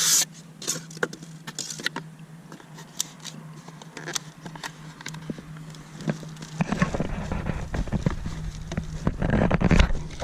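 Packaging being handled while a battery is unboxed: scattered sharp clicks and crinkles of plastic and cardboard. About seven seconds in, the handling turns into heavier, continuous rustling with a low rumble underneath.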